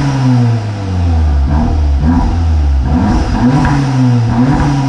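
Volkswagen Mk7 Golf R's turbocharged 2.0-litre four-cylinder through a new Milltek catback exhaust, blipped several times from idle, each rev rising and dropping back, with some little pops. The exhaust note is a lot louder than stock.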